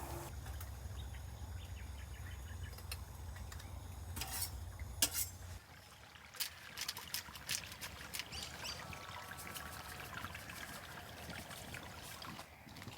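Liquid being poured and trickling, with a few light clicks and knocks of cookware. A low rumble underneath cuts off about five and a half seconds in.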